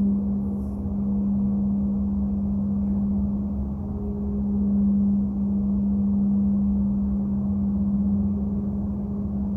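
Monochord drone: many strings tuned to one note sounding a steady low tone with soft overtones above it, slowly swelling and easing in loudness.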